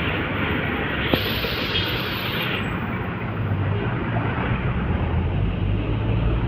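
Road traffic on a busy road: passing trucks give a steady low engine drone under a rush of tyre noise, with one vehicle swelling past from about a second in and a single sharp click.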